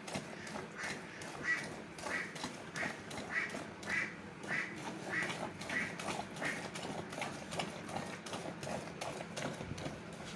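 Cow being milked by hand: rhythmic squirts of milk hitting a bucket, about one and a half strokes a second. The squirts sound lower in pitch later on.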